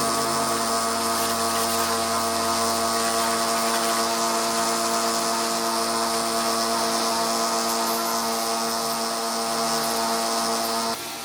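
Power tool motor running steadily with a constant whine over a hiss, cutting off sharply near the end.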